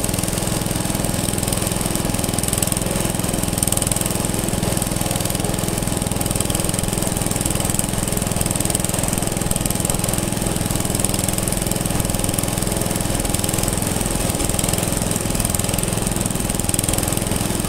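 Engine running steadily at a constant speed, with an even firing rhythm and no change in pitch.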